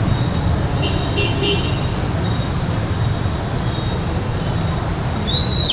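Motorbike street traffic: engines running in a steady rumble, with a short burst of horn beeps about a second in and a single high horn toot near the end.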